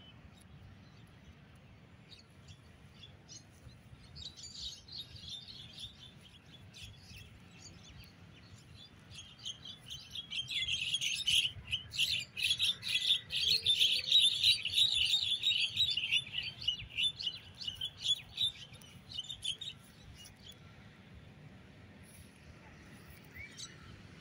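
Small birds chirping: a few scattered high calls about four seconds in, then a dense run of rapid chirps from about ten to twenty seconds in, fading out after.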